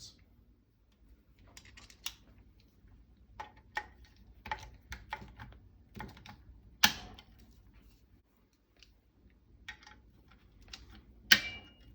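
Torque wrench with a driver bit being worked on the rifle's screws: a run of small scattered clicks and two sharp clicks, one about seven seconds in and one near the end, the wrench breaking over at its set torque.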